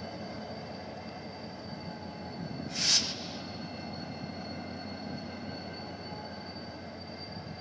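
Rail maintenance train running on the track: a steady rumble with a faint high steady whine, and a short loud hiss about three seconds in.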